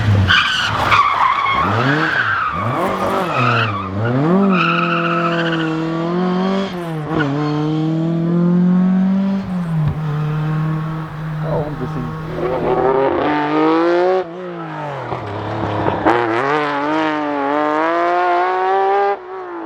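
Rally car engine driven hard, its pitch repeatedly climbing and dropping with the throttle and gear changes, with a few sharp cracks along the way.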